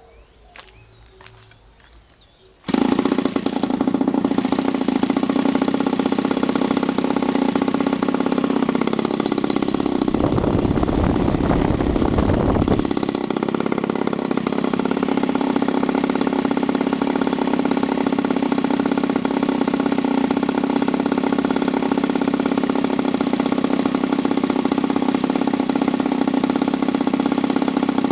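SV 26cc two-stroke gasoline model-aircraft engine swinging a 17x8 propeller: a few faint clicks, then about three seconds in the engine starts suddenly and runs steadily at high speed, around 6700 rpm. There is a low rumble for a few seconds near the middle.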